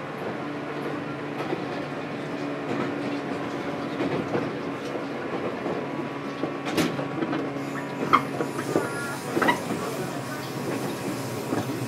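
Onboard running sound of a JR 415-series electric multiple unit, heard inside motor car MoHa 414-107: a steady hum from the running gear with wheels clacking over the rails. A few sharp knocks, some with a brief squeal, come between about seven and ten seconds in.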